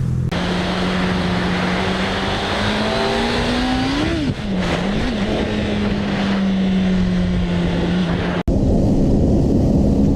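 Motorcycle engine running under way with wind rush. About four seconds in, the revs climb, then drop sharply with one quick blip, and settle back to a steady drone. Near the end the sound cuts suddenly to a different steady engine note.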